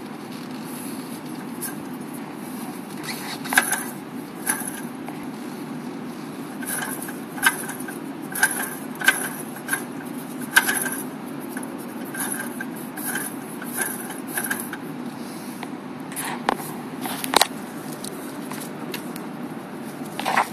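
Porsche 928 S4's 5.0-litre V8 idling steadily, with irregular sharp clicks and light rattles over the engine note.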